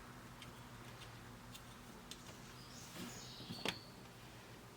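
Faint clicks and taps of small plastic pop bumper parts being handled over a steady low hum, with a brief high chirp about three seconds in and a sharper click just after it.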